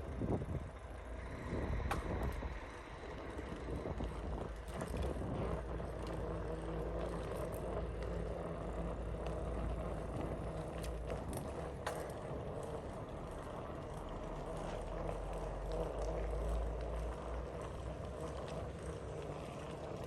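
Bicycle ridden along a road: steady rolling and wind noise with a low rumble and a few sharp clicks and rattles.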